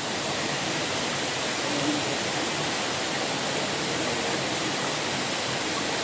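Handibhanga waterfall, a 200 ft fall, sending down water in a steady, even rush.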